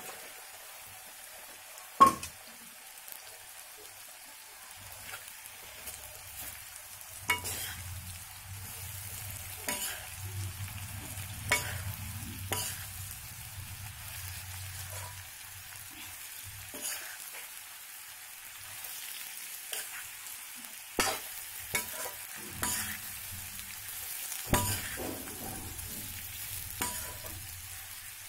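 Cut bitter gourd sizzling in hot mustard oil and masala in a kadhai, turned with a metal spatula that scrapes and knocks against the pan every few seconds. The sharpest knock comes about two seconds in.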